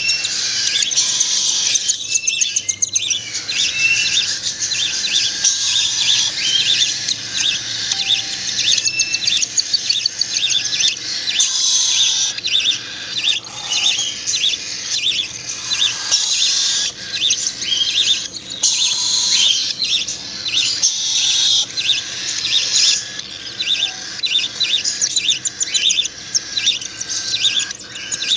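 Nestling songbirds begging to be hand-fed: rapid, constant high-pitched chirping from several chicks at once.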